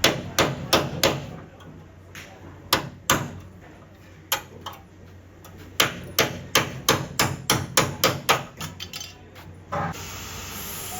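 Hammer blows on the car's sheet-metal body during dent repair: a few sharp strikes, then a quick run of about four a second, then a few more. A steady hiss starts near the end.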